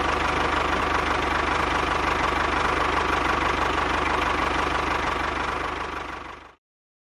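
Tractor-style engine running steadily at idle, fading a little and then cutting off abruptly about six and a half seconds in.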